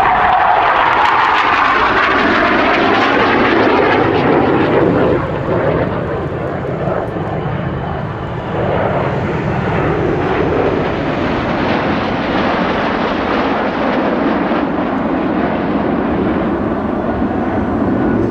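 BAE Systems Hawk T.65A jet trainers flying a display pass, their Adour turbofan engines roaring. The pitch falls in the first two seconds as the jets go by, then a steady jet rumble carries on.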